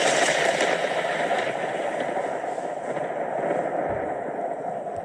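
Cartoon storm sound effect of rain and thunder: a dense rushing noise that breaks in suddenly and slowly dies away.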